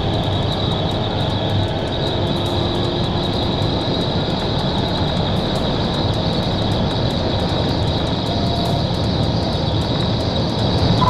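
Steady road and wind noise from a pursuing police patrol car driving fast on the interstate, a continuous rushing rumble with no siren.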